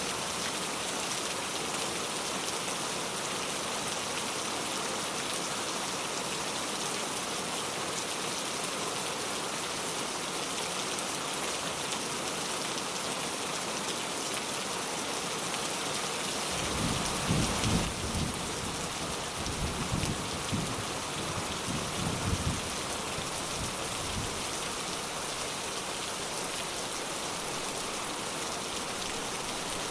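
Steady rain falling, an even hiss. About halfway through, a low rumble of thunder rolls in over several seconds in a few surges, then fades back under the rain.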